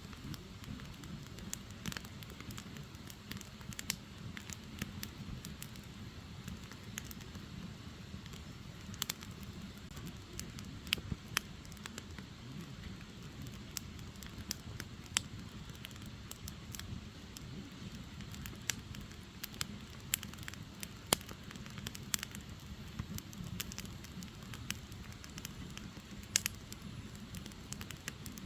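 Firewood burning: a steady low rush of flame with irregular sharp crackles and pops from the logs, a few louder snaps among them.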